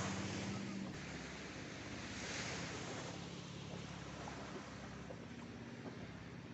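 Waves washing onto a beach, with a surge swelling about two seconds in, over a low steady hum.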